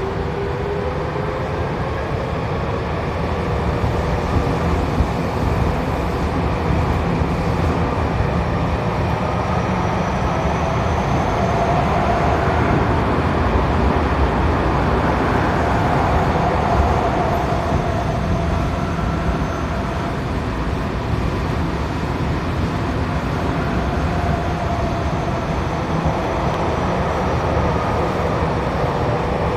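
Tokyo Metro 7000 series subway train running between stations, heard from inside the car: a steady rumble of wheels on rail under a motor whine that glides up and down in pitch.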